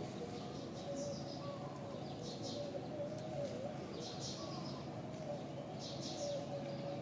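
Birds chirping: clusters of short, high, quick chirps repeating every second or two over a steady, slightly wavering hum.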